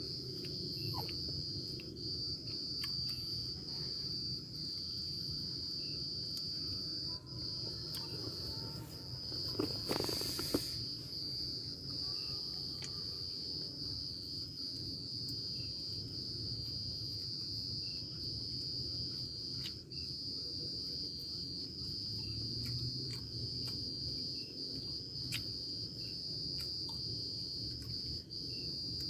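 Crickets trilling in a steady, high-pitched, unbroken chorus, with a brief louder noise about ten seconds in.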